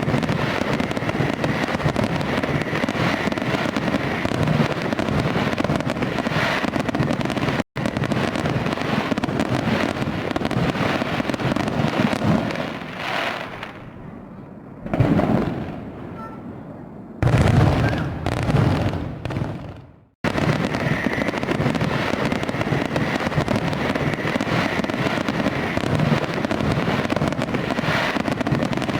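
Fireworks display: many shells crackling and popping continuously. About halfway through it thins out for a few seconds, broken by two loud bursts. The sound cuts out abruptly twice for an instant.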